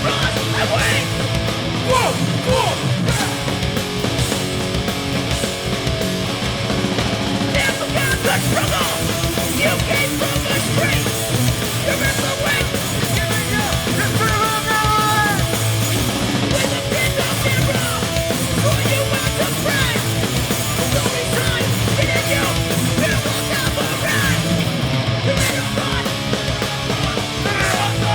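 Hardcore punk band playing a song live, loud and unbroken, with shouted vocals over the band.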